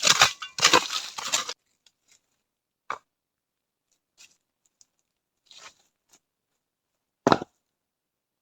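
Rough tearing and crunching for about a second and a half, then scattered light clicks and knocks with one sharper knock near the end.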